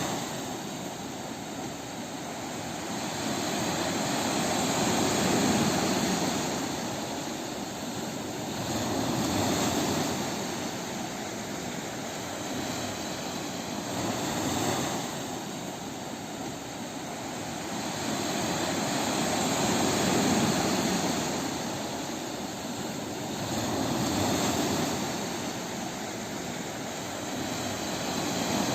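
Ocean waves breaking on a beach: a continuous surf wash that swells and eases every four to five seconds.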